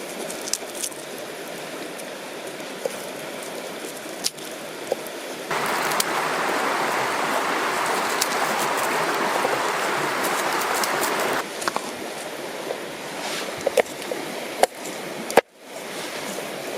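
River water running steadily, with scattered light clicks and taps over it. About five seconds in, a louder rushing noise starts abruptly and stops just as suddenly about six seconds later.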